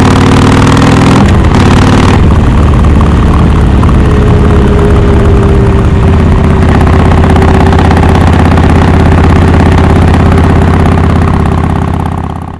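Harley-Davidson Forty-Eight's 1200 cc V-twin running through a Rinehart Racing 3-inch slip-on exhaust with the Super Quiet baffle. The engine pulls up in pitch twice with a break between, like upshifts under acceleration, then runs steady before fading out near the end.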